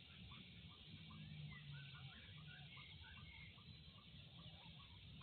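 Faint outdoor ambience: many small birds chirping, short rising chirps repeating a few times a second, over a low hum.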